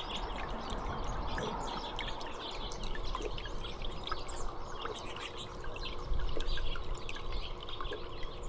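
Water trickling and dripping steadily, with small birds chirping briefly here and there over it.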